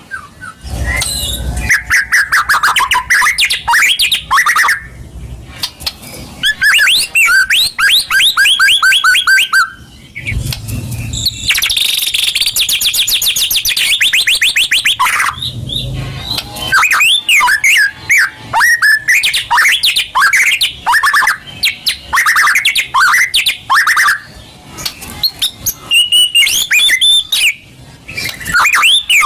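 White-rumped shama singing loudly and continuously: a varied song of rapid trills, clear whistles and harsh rattling runs, broken by short pauses.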